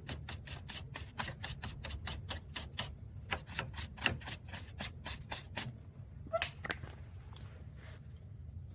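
Stiff hand brush scrubbing in quick back-and-forth strokes, about five a second, stopping about six seconds in, followed by a few scattered strokes.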